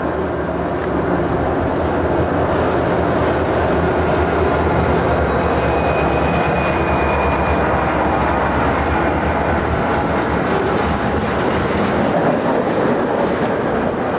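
Freight train passing close by on a curve: Southern Pacific diesel locomotives running, then covered hoppers and gondolas rolling past on steel wheels. A steady loud rumble, with a thin high tone for a couple of seconds midway.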